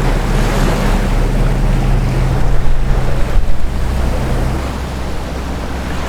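Sailboat's inboard engine running steadily at cruising revs under a loud rush of wind on the microphone and water washing past the hull, the boat rocking in shoaling waves over a reef. The rush swells louder for about a second between two and four seconds in.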